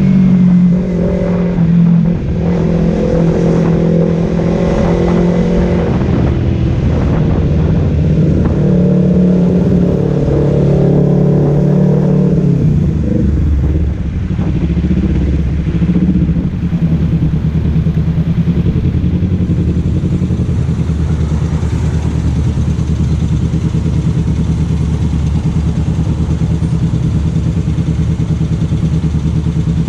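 Kawasaki Z250's parallel-twin engine running through a Leovince Cobra aftermarket exhaust while warming up. It holds raised revs for about twelve seconds, then drops to a steady idle.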